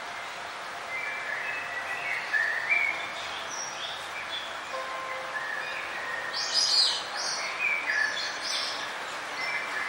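Several songbirds chirping in short, overlapping calls over a steady background hiss, with a loud cluster of high chirps about seven seconds in.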